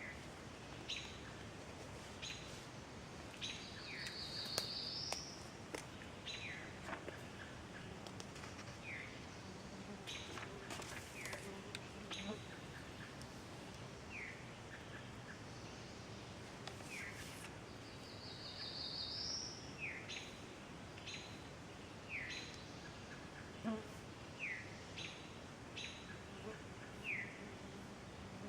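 Woodland birdsong: a black-throated blue warbler's buzzy, rising song phrase comes twice, about fourteen seconds apart. Around it runs a steady scatter of short, high, down-slurred chirps.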